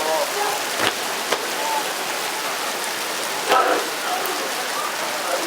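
Steady rain falling, with a few sharp knocks, the loudest about three and a half seconds in.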